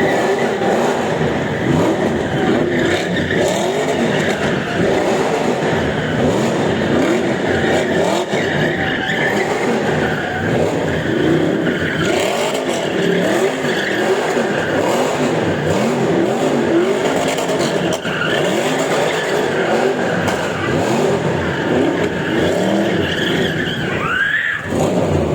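Several sports car engines revving and passing one after another, their pitch rising and falling in overlapping arcs.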